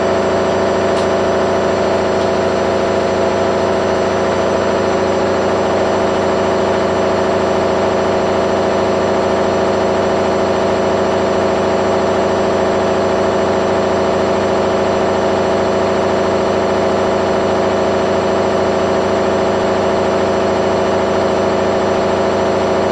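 Candy washing machine on its high-speed spin, the drum turning at a steady speed with a loud, very noisy hum and whine made of several fixed tones. The spin is running at about 900 rpm, faster than the 800 rpm that was set.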